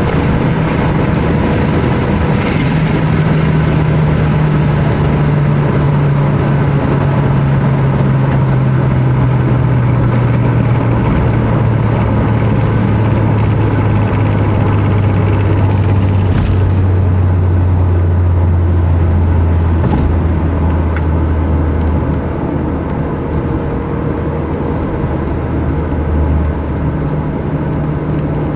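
Car engine heard from inside the cabin, slowing down in fifth gear from near top speed, over steady wind and road noise. Its note falls slowly for about twenty seconds, then rises again near the end.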